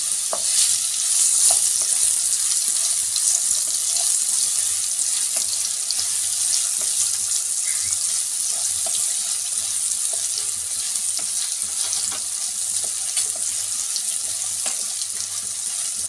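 Chopped apple pieces sizzling in hot oil in a pan, a steady hiss, with scattered light scrapes and taps of a wooden spatula stirring them.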